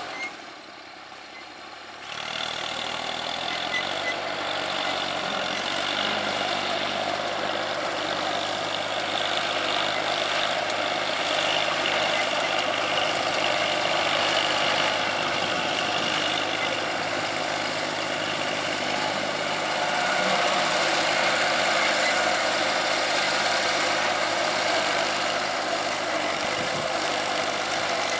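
Diesel engine of a New Holland 3230 TX Super 4WD tractor running steadily under load as it works through deep mud, getting louder about two seconds in.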